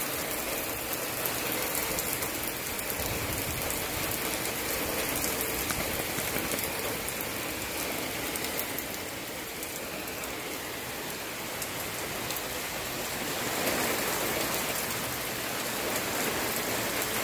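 Steady rain falling on an asphalt driveway and pavement: an even hiss with many small drop taps.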